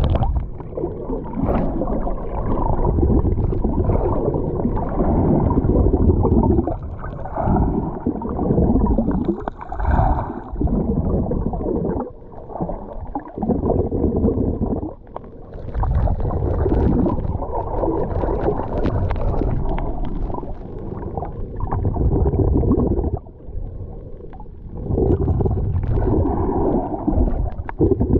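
Muffled sea water churning and rumbling close to the microphone, rising and falling in surges every few seconds.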